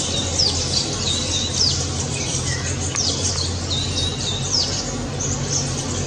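Birds calling: repeated short, high chirps, each dropping quickly in pitch, coming roughly once a second over a steady low hum.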